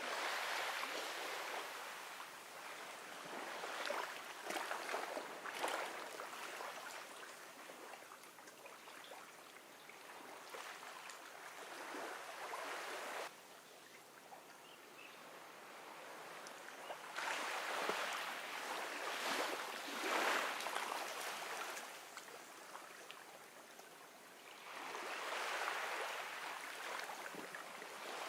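Gentle ocean waves washing onto a beach, the surf swelling and fading every few seconds. One wash cuts off abruptly about halfway through.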